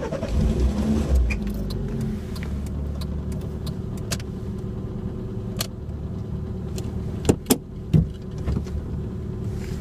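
A car's engine starts and then runs steadily, heard from inside the cabin as a low hum. There are a few sharp clicks or knocks about seven to eight seconds in.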